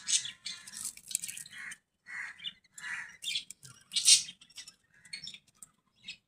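Budgerigars chirping and chattering in quick, irregular bursts.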